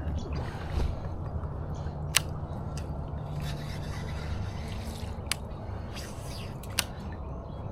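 Fishing tackle being handled from a kayak: soft rubbing and scraping with three sharp clicks, over a low steady rumble.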